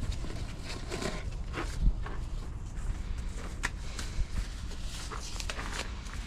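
Scattered light clicks, taps and shuffling of hand work on machinery, over a steady low rumble.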